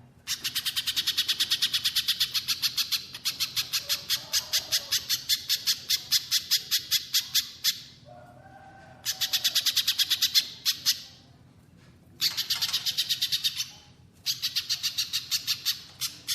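A small songbird calling in long rapid runs of sharp, high notes, about eight a second, four runs with short pauses between them.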